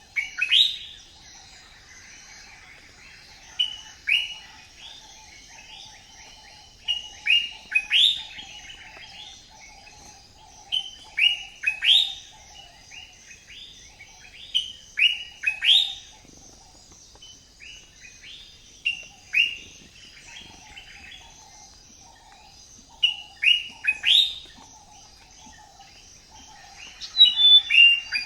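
Birds chirping: bursts of two to four quick, rising chirps come every few seconds over a faint, steady background.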